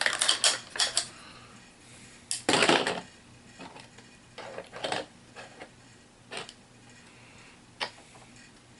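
HeroClix plastic miniatures clicking and clacking as they are handled and set down, with a louder clatter about two and a half seconds in and scattered single clicks after.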